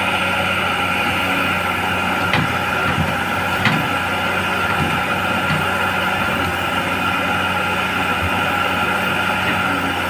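Caterpillar excavator's diesel engine running steadily under load as the machine tries to pull itself out of sucking mud, with two brief knocks a little after two seconds and near four seconds in.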